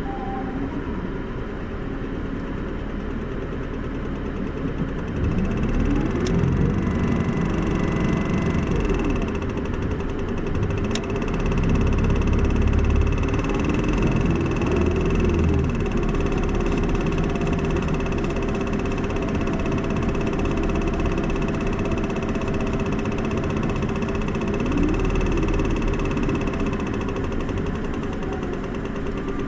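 Inside a city bus: an Isuzu Erga's diesel engine runs quietly for the first few seconds, then grows louder about five seconds in as the bus pulls away. The engine pitch rises and falls several times as it works up through the gears, with a steady high whine over the running noise.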